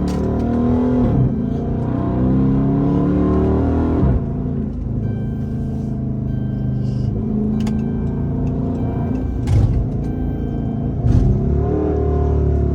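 Chrysler 300's 5.7-litre Hemi V8 accelerating, its pitch climbing, falling at a gear change about four seconds in, then climbing again near the end. A few short knocks are heard along the way.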